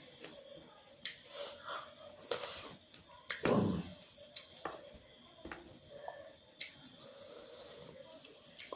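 Close-up eating sounds: chewing with frequent wet mouth clicks and breaths, and one louder, longer sound about three and a half seconds in.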